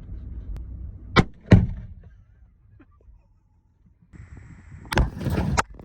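Two sharp bangs about a third of a second apart, the second heavier and deeper: explosive packed into an old washer and dryer being set off. Near the end a steady high tone comes in, followed by a loud burst of noise lasting about half a second.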